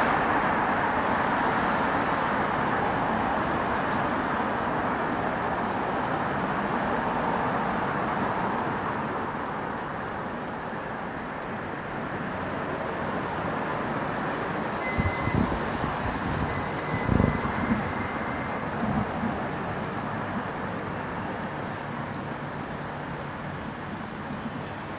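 Road traffic passing along a street, loudest at the start as a vehicle goes by and then easing to a steadier hum. A few low thumps come a little past the middle.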